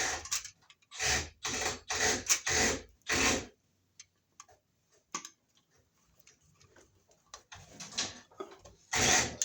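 A plastic Wiremold surface-mount box handled and pressed onto its raceway track: a quick run of short scraping clicks and rattles in the first few seconds, a few faint ticks, then two more rattling bursts near the end.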